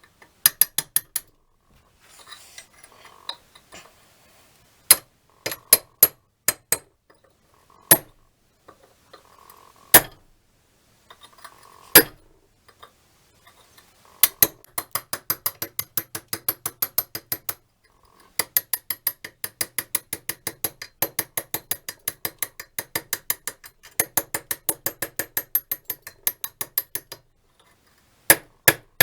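Fast runs of sharp metallic clicks, about six to seven a second, from a small hand-worked mechanism, with single louder knocks in between.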